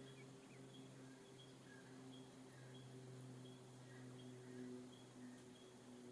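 Faint bird calls: a short high chirp repeated about twice a second, some with a lower note beside it, over a steady low hum.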